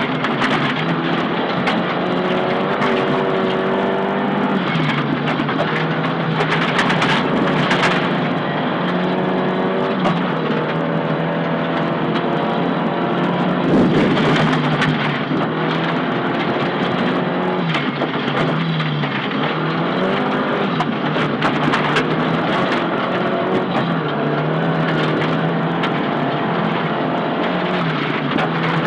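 Nissan Silvia S15 rally car's engine driven hard, heard from inside the cabin. Its note drops and climbs again several times as the driver shifts and lifts, with scattered knocks and clatter from the road surface.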